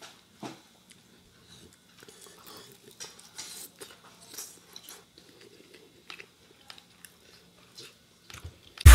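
Close-up chewing and crunching of crispy fried chicken, with scattered small crackles and mouth sounds. Loud electronic dance music cuts in suddenly at the very end.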